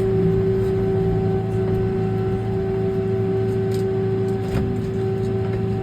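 Kubota M6 tractor's diesel engine running at a steady speed, heard from inside the cab, with a constant pitch.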